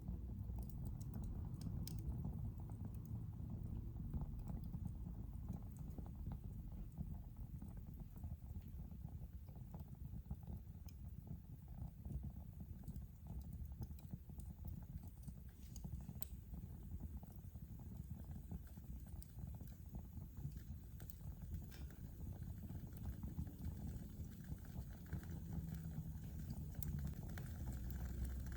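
Wood fire burning in a fireplace: a low, steady rumble of flames with scattered sharp crackles and pops from the burning logs.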